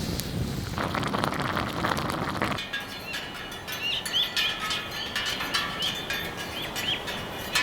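Small birds chirping repeatedly over sharp crackling clicks, likely from a wood fire, after a couple of seconds of rustling noise at the start.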